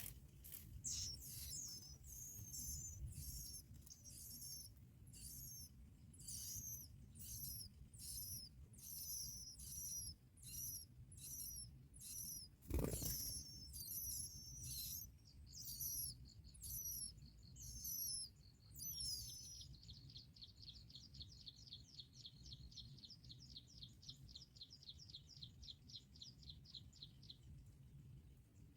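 Bar-winged prinias calling at the nest: a string of sharp, high chirps about once a second, then, about two-thirds of the way in, a fast high trill lasting several seconds. A single sharp knock about halfway through, over a low rumble throughout.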